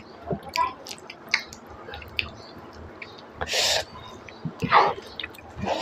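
Close-miked wet chewing and lip smacks of someone eating pork trotter curry with rice, with short clicks throughout. There is a loud breathy burst a little past halfway and another near the end.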